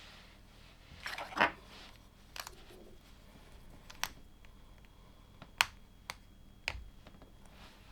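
LEGO plastic pieces being handled and pressed together: a brief rustle about a second in, then several separate sharp plastic clicks a second or so apart.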